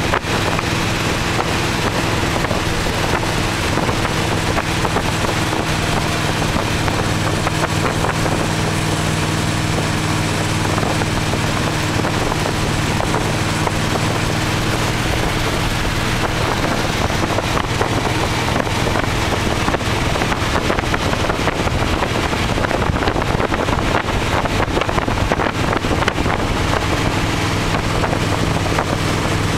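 1928 Ford Model A hot rod roadster under way at a steady speed: the engine runs with an even hum, and wind rushes over the open, topless car.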